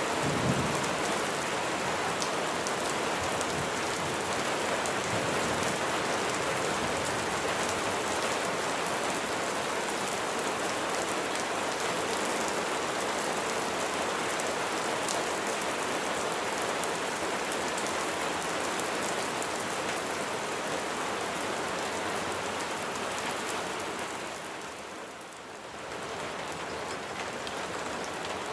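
Steady rain falling, a dense patter of drops hitting a surface. The rain briefly dips quieter about 25 seconds in, then comes back.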